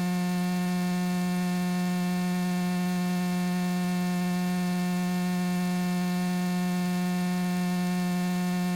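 A steady electrical hum on the aircraft's intercom and radio audio feed, with no radio calls. It is one unchanging buzzing tone with a long string of overtones.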